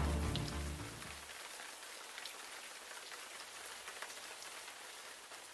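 Closing music dying away in the first second or so, then steady rain: a soft, even hiss with scattered ticks of drops, tapering off toward the end.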